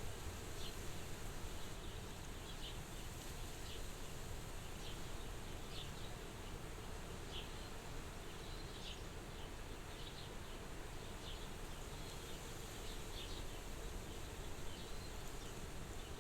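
Soft wind at a farmhouse window: a steady low rush, with small high chirps about once a second.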